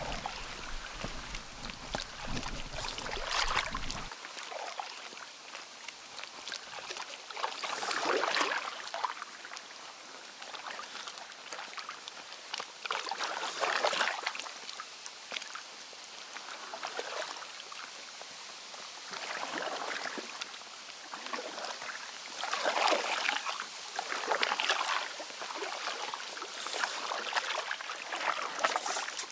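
Kayak paddles dipping and pulling through lake water, each stroke a swell of splashing and trickling water, coming every few seconds. A low rumble stops about four seconds in.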